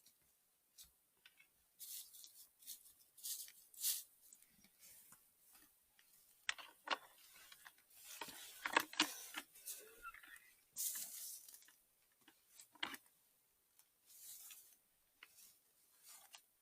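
Irregular rustling, scraping and light clicks from things being handled, busiest about halfway through.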